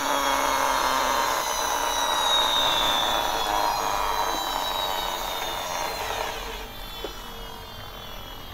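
Toy bus's wheels and motor whirring with a high steady whine, fading away about six seconds in as it runs down.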